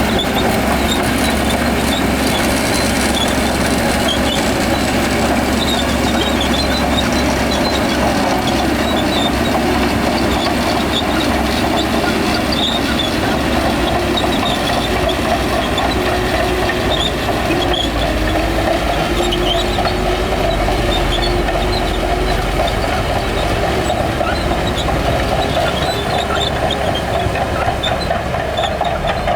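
Crawler bulldozer's diesel engine working steadily under load, its pitch wavering and rising slightly midway, with scattered light clanking from the tracks.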